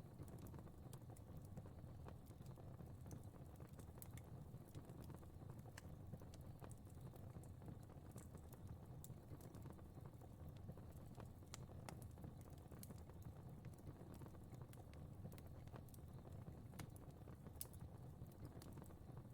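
Fire crackling in a fireplace: irregular sharp pops and crackles over a steady low rumble.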